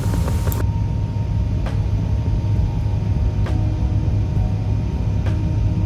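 Steady low rumble of a high-speed passenger train running at speed, heard inside the passenger cabin, with a few faint ticks.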